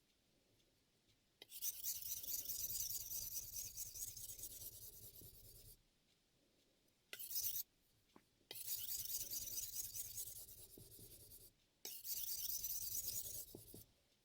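Chef knife blade being stroked quickly back and forth across a Shapton M15 ceramic whetstone in freehand sharpening. It is a scraping sound that comes in three long runs of rapid strokes, with a short burst and brief pauses between them.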